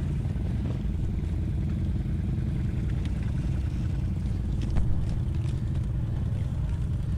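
ATV engine idling steadily, with a few light knocks and clatter and one louder knock about five seconds in.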